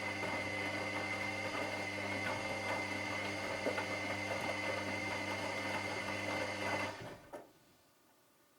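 Washing machine running with a steady motor hum and a high whine over its churning, which stops abruptly about seven seconds in, followed by a single click.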